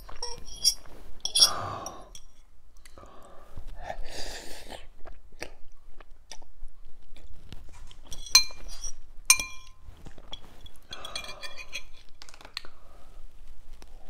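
Close-miked chewing of spicy ramen noodles, with a metal fork clinking against a glass bowl several times.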